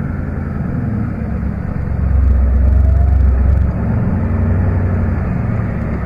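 A 4WD's engine running, heard from inside the cab as a loud low rumble. About two seconds in it swells for a second or so, then settles back.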